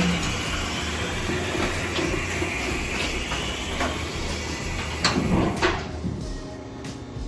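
Steady loud hiss with metallic knocks and clatter, typical of exhaust work under a car, stopping suddenly about six seconds in.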